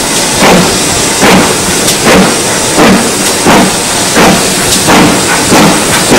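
Steam locomotive working under power, its exhaust giving regular chuffs about every 0.7 seconds over a steady hiss of steam.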